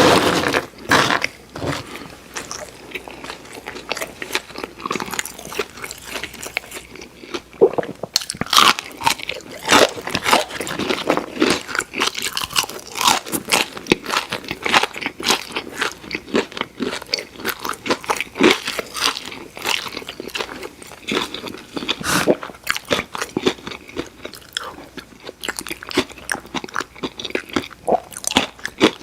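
Crunchy bites and chewing of fried food, a dense run of irregular crackly crunches.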